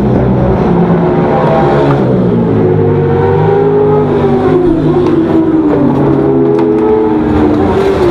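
Suzuki GSX-R600 race bike's inline-four engine running hard on track, its pitch rising and falling with the throttle and gear changes.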